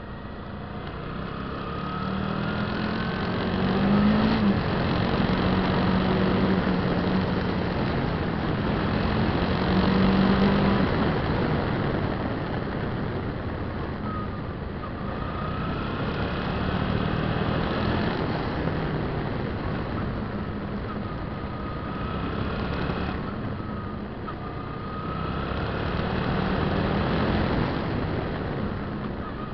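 Suzuki V-Strom 650's V-twin engine running under way, heard with wind rush, the sound swelling and easing off several times as the bike rides on.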